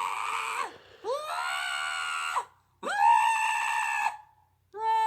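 An animal screaming in long, loud calls, one after another, each rising sharply and then held level before breaking off; the last is short.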